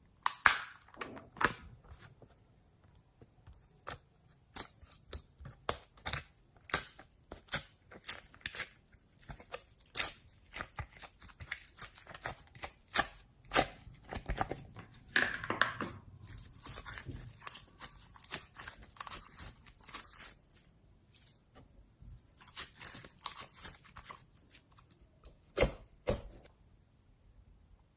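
Slime being squeezed, stretched and poked by hand: a string of sticky pops and clicks, with two longer spells of crackling in the middle and near the end.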